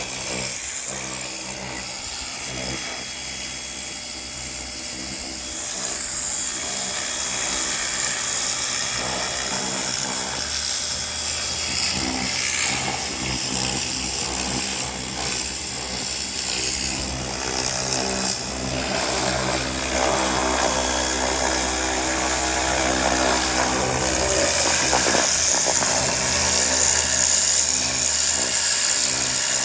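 Pressure washer running steadily: a motor hum under a loud, high spray hiss, washing caked mud off an old truck frame.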